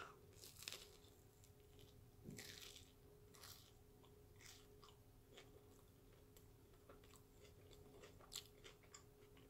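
Faint biting and chewing of a deep-fried corn dog: a bite, then a few soft, scattered chewing sounds, the clearest about two and a half seconds in.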